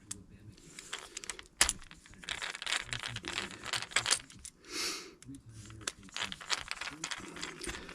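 Small metal tools and screwdriver bits clicking and rattling as they are handled on a workbench, in a string of irregular clinks with a sharp click about one and a half seconds in.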